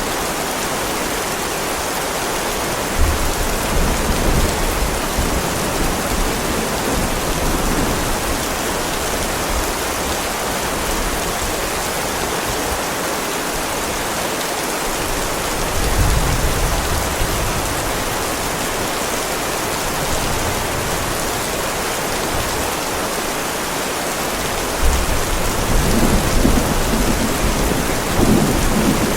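Heavy rain falling steadily on a driveway, a dense even hiss of drops. Low rolls of thunder rumble under it about three seconds in, again around the middle, and once more near the end.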